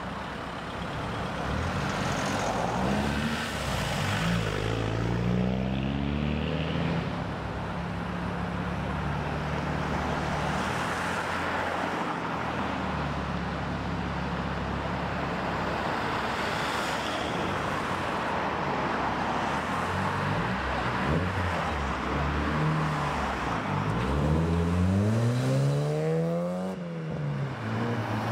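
Car engines pulling away: a Land Rover Defender moves off with its engine revving up a few seconds in. Then a first-generation Mazda MX-5 runs steadily before accelerating away, its revs rising sharply and dropping at a gear change near the end.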